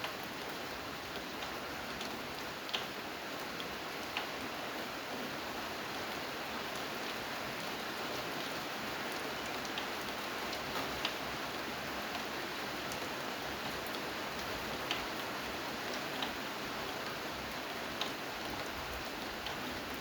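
Steady rain falling, an even hiss with a few louder drops tapping sharply here and there.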